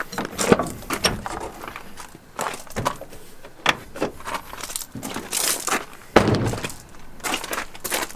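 A string of irregular knocks, clicks and thuds, with a louder rushing, scraping noise about five seconds in, followed by a heavier thud.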